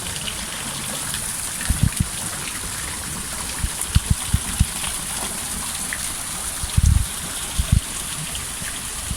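Steady rush of running water, with a few short low thumps on the microphone.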